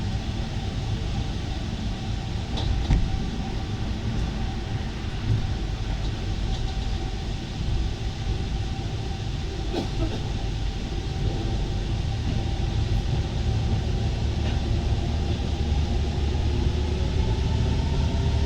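Alstom MP 05 rubber-tyred Paris metro train running through a tunnel: a steady low rumble with a few light knocks. The motor's whine rises in pitch over the last few seconds as the train speeds up.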